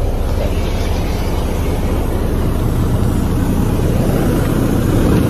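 Detroit DD13 inline-six diesel engine of a 2014 Freightliner Cascadia idling steadily, heard from inside the cab, swelling slightly near the end.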